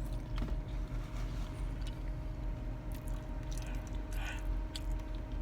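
A person chewing food close to the microphone: scattered soft smacks and clicks over a steady low hum.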